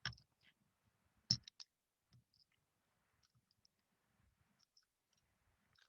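Binder clip opening and closing on paperclips, giving small metal clicks: a quick cluster of sharper clicks about a second and a half in, then faint scattered ticks.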